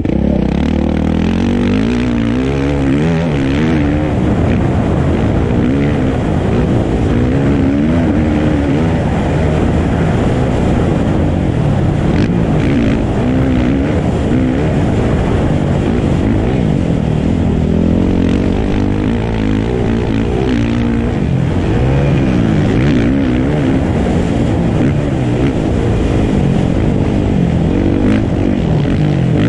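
Dirt bike engine revving hard and easing off over and over, its pitch climbing and dropping with throttle and gear changes.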